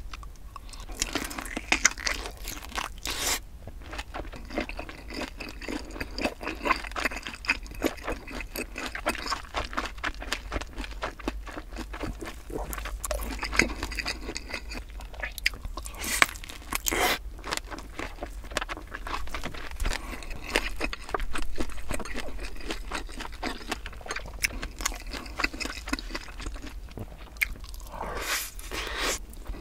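Close-miked eating sounds: crunchy bites and continuous chewing of a kielbasa sausage, with dense crackles and clicks from the mouth.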